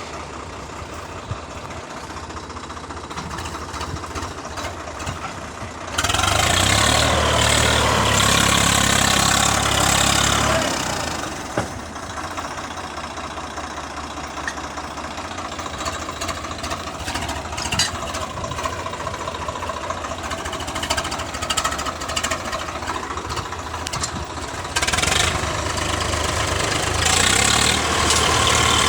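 Swaraj tractor diesel engines running, steady at first, then much louder for about five seconds starting around 6 s in, as if revved hard, and loud again from near the end.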